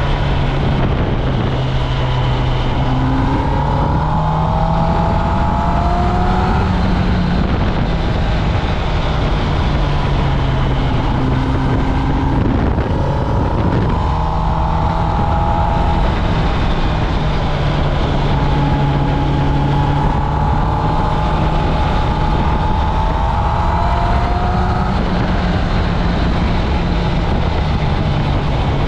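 Kawasaki Ninja ZX-10R's inline-four engine running through its stock exhaust while ridden, its note climbing several times as it accelerates and then settling back.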